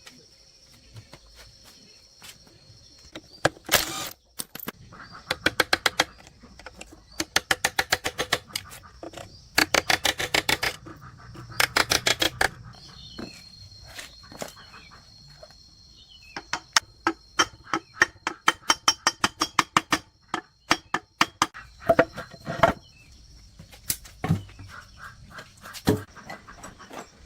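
Runs of rapid sharp clicking, several clicks a second, in bursts of one to a few seconds with pauses between, over a steady high insect drone.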